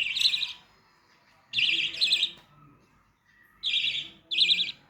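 A bird chirping in short, shrill bursts: one at the start, then two quick pairs of chirps, the first pair about a second and a half in and the second near the end.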